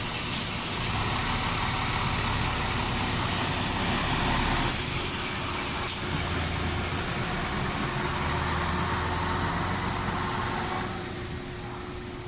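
A vehicle running steadily, with one sharp click about six seconds in and the noise easing near the end.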